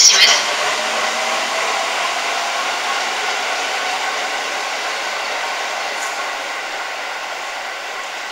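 JR 205-series electric commuter train pulling out of the platform and running away down the line, a steady whir and rumble that slowly fades as it goes.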